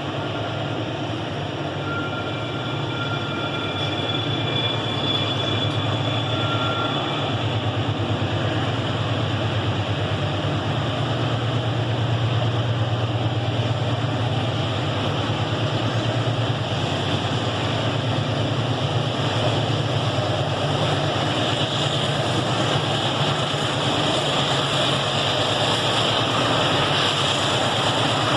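Train rolling past: a steady rumble of wheels on the rails that slowly grows louder, with thin high wheel-squeal tones in the first several seconds.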